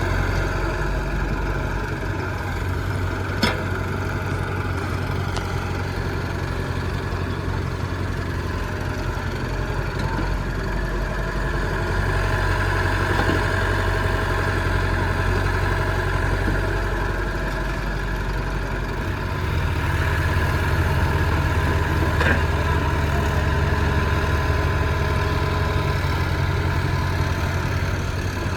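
Diesel engines of tractors and a JCB loader running steadily while working in clay, growing louder about nineteen seconds in. A short sharp knock about three seconds in.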